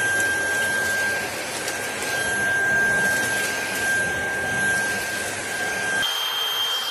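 iXlion cordless stick vacuum running with a steady whine over the rush of its suction. About six seconds in the sound changes: the whine steps up to a higher pitch and the low rumble drops away.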